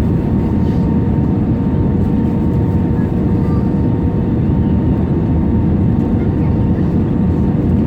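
Steady cabin noise inside an Airbus A320neo airliner: a deep, even rush of engines and airflow, with a faint steady whine running through it.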